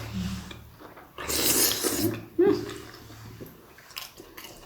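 Close-miked wet eating sounds: a loud slurp about a second in, then a short throaty sound, followed by quieter mouth noises.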